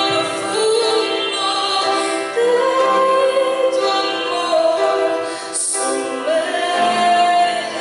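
A woman singing a Christian praise song over musical accompaniment, holding long notes.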